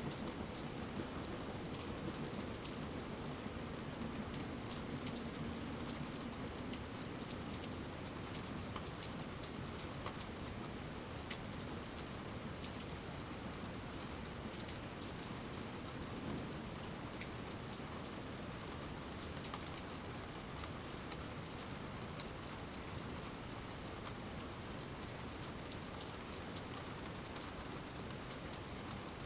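Steady rain falling, with many individual raindrops ticking on surfaces close by.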